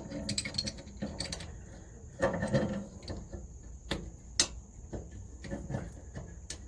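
Pipe wrench clicking and scraping against old galvanized steel pipe as it is worked to unscrew the pipe. Irregular metallic clicks and knocks, with two sharp ones about four seconds in.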